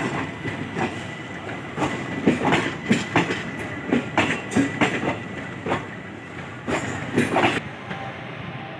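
Express passenger train passing at speed, its coach wheels clattering over the rail joints in an uneven run of clicks and knocks over a steady rumble. The clatter stops sharply about seven and a half seconds in, leaving a quieter background.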